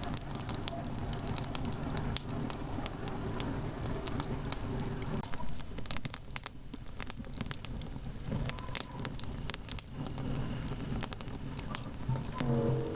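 Campfire crackling, with many irregular sharp pops and snaps over a steady low rush. Near the end a low sustained musical tone comes in.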